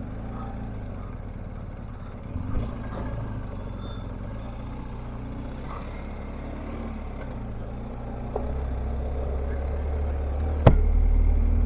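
Motorcycle engine running steadily under way, with road noise. The low drone gets louder about two-thirds of the way in, and a single sharp knock comes near the end.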